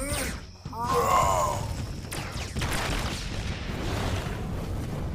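Cartoon action sound effects: a short high cry about a second in, then a long low rumble of crashing and booming.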